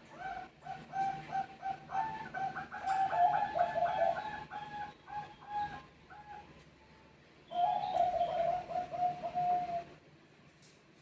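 Zebra dove (Bangkok perkutut) cooing: quick runs of short, clipped notes. The run breaks off about six and a half seconds in, a new bout starts a second later, and it stops near the end.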